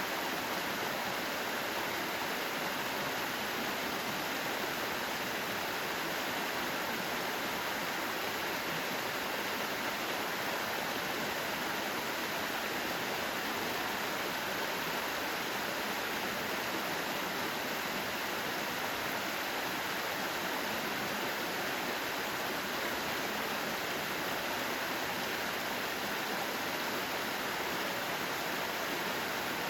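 Mountain stream water rushing over rocks in a steady, unbroken hiss.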